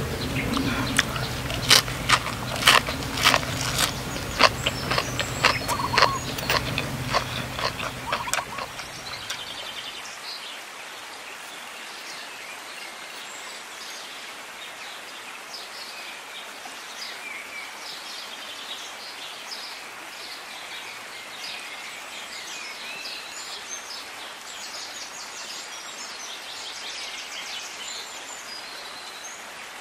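Close, crisp crunching and clicking, several a second, of someone eating deep-fried mackerel wrapped in lettuce for the first eight seconds or so. After that, birds chirp over a steady outdoor background.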